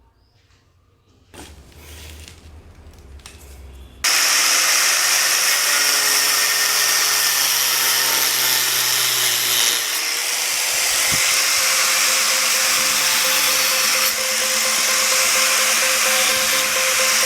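An electric power tool running steadily at speed, starting abruptly about four seconds in after a brief low rumble, with a loud hiss and a few steady tones; it dips briefly near ten seconds in.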